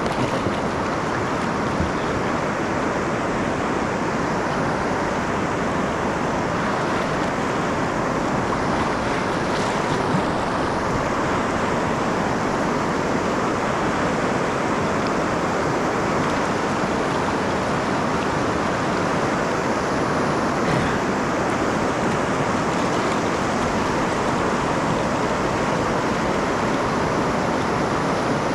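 Snoqualmie River whitewater rushing steadily, a continuous even rush of moving water.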